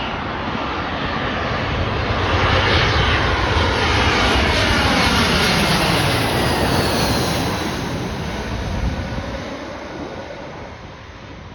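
Airbus A319 airliner with IAE V2500 turbofans passing close by on arrival. Its engine noise swells, peaks, then fades away, with whining tones that glide down in pitch as it goes past.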